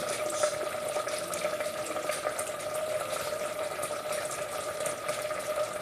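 Steady watery hiss with fine crackle and a constant hum underneath, unchanging throughout.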